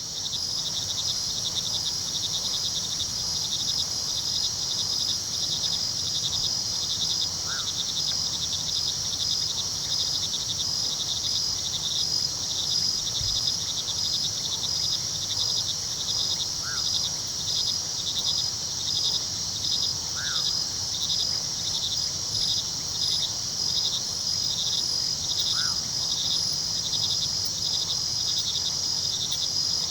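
A dense night chorus of crickets chirping steadily in rapid, pulsing trills over a low, steady rush of river water. A few brief, short calls break through every few seconds.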